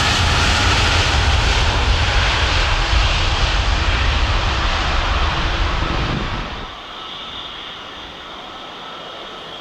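Jet airliner engines running loud with a deep rumble, dropping abruptly about six and a half seconds in to a quieter, steady hum with a faint whine.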